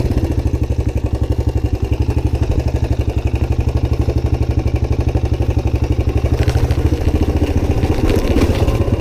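Suzuki DR-Z125's single-cylinder four-stroke engine running at low, steady revs. A stretch of rougher clattering noise joins it about two-thirds of the way through.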